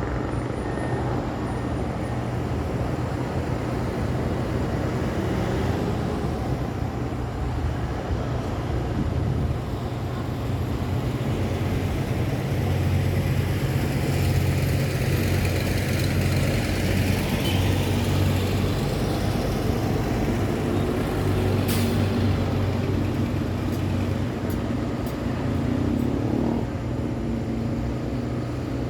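City road traffic: vehicle engines and tyres passing continuously, with a steady low rumble of heavy engines under it. A single short sharp click sounds about three-quarters of the way through.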